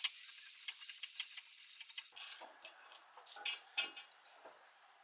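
Ratchet wrench clicking rapidly and evenly as a bolt or spark plug is turned out, for about two seconds. It then gives way to a few separate metal clinks and knocks of tools and parts being handled.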